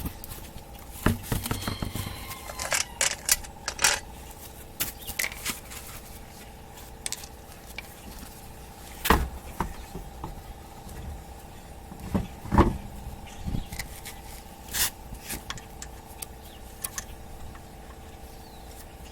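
Scattered metallic clicks, clanks and scrapes of hand tools being worked on a rear shock mount bolt, with two louder knocks partway through, over a steady hum.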